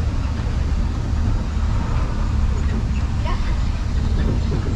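Studio tour tram running, a steady low rumble of its engine and wheels heard from on board, with passengers talking faintly.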